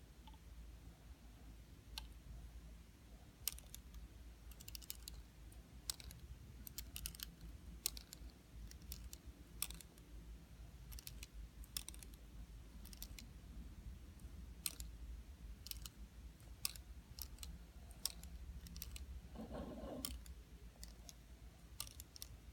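DJI Phantom 4 camera gimbal clicking, a fault that comes each time the gimbal tilts downward: sharp, irregular clicks, one or two a second, over a low hum.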